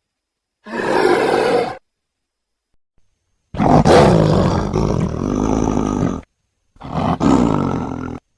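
Three loud monster-style roars separated by dead silence: a short one about a second in, a long one in the middle that is the loudest, and a shorter one near the end.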